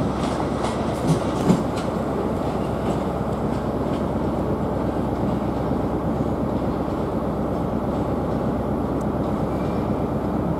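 LNER Class 800 Azuma train pulling away with a steady rumble, its wheels clicking over the pointwork in the first second or so.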